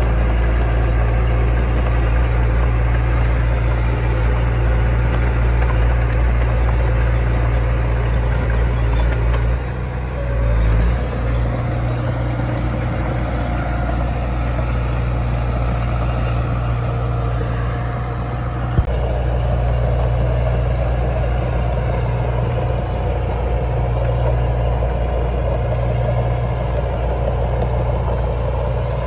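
Heavy diesel engine of earthmoving machinery running steadily with a deep, even drone. It dips and swells briefly about a third of the way in, and a single sharp click comes near the middle.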